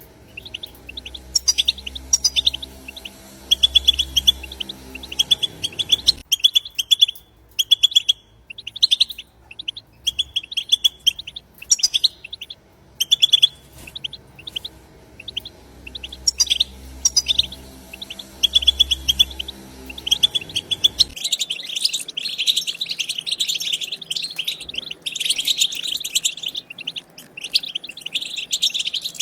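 European goldfinches giving their rapid twittering 'batbata' chatter: runs of short, high chirps broken by brief pauses. About two-thirds of the way through, the chatter becomes a dense, continuous twitter and a low hum underneath stops.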